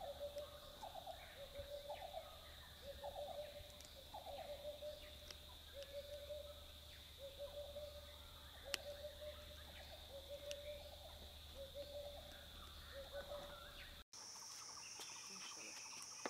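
Forest ambience: a bird repeats a short, low hooting call about three times every two seconds over a steady high-pitched insect drone. There is one sharp click about halfway through. Near the end the sound cuts abruptly to a different, higher insect drone.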